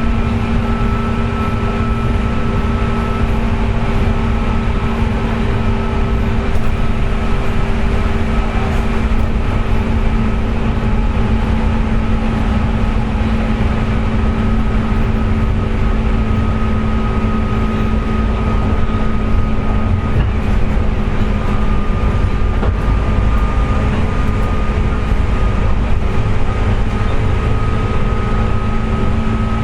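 JR West 201 series electric train (motor car MoHa 201-280) running at a steady speed, heard from inside the car: a continuous rumble of wheels on rail with a steady whine over it. The whine is the 'jet sound' of traction motor bearings pitted by electrical corrosion.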